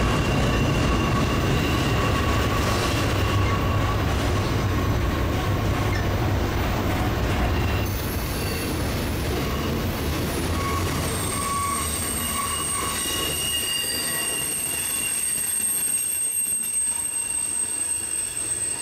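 CSX freight train rolling past: double-stack intermodal well cars followed by covered hoppers, with a steady rumble of wheels on rail. Thin, high-pitched wheel squeal rides over it, getting higher and thinner in the second half as the rumble eases after about eight seconds.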